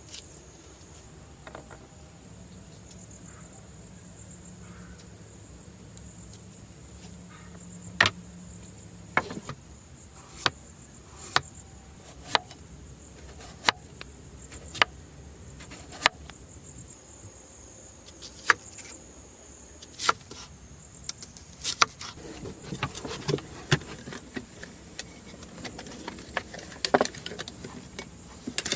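Steady high insect chorus, with a series of sharp knocks or taps starting about eight seconds in, roughly one a second, coming thicker near the end.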